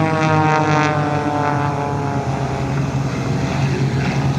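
Propeller-driven aerobatic aircraft flying past in formation: a steady engine drone whose pitch sinks slightly in the first second or two as they pass.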